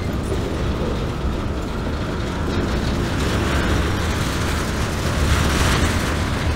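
Freight cars of a CSX mixed freight rolling past: a steady rumble of steel wheels on the rails, with a rushing hiss that grows louder in the second half.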